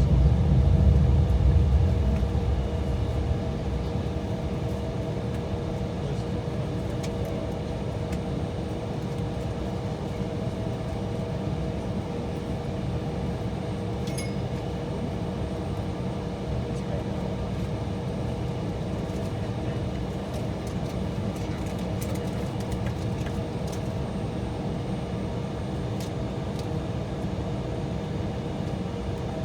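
Steady engine hum inside the cabin of an Embraer E175 jet holding on the taxiway, with two held tones running through it. A low jet rumble, from a departing airliner, is loudest near the start and fades away over the first few seconds.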